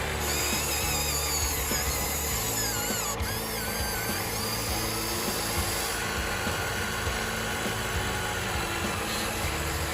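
Small electric motors of radio-controlled construction models whining, with their pitch wavering up and down as they speed up and slow down, over background music.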